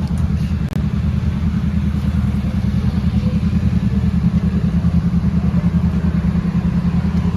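Sport motorcycle engine idling steadily, a low pulsing rumble with no revving.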